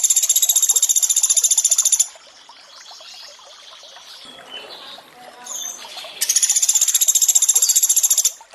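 Pelatuk beras calling: two loud, rapid, high-pitched trills of about two seconds each, the second starting near the end, over a steady trickling water sound.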